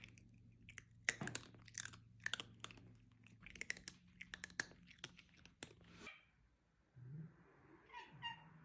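Crunchy chewing: a run of irregular crisp clicks lasting about five seconds, then stopping.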